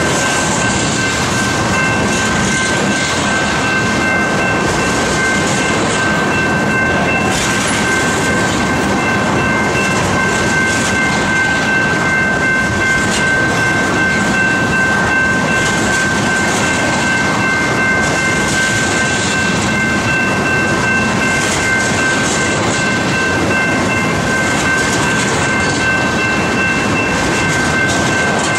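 Freight train of oil tank cars rolling past: steady rumble and clatter of steel wheels over the rails, with a steady high-pitched ringing tone held throughout.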